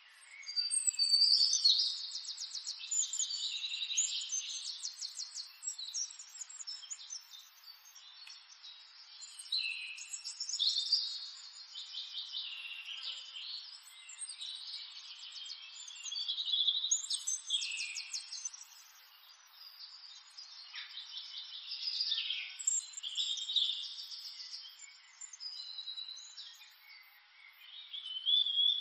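Birds singing: repeated song phrases of fast trills and short whistles, each a second or two long, coming every few seconds.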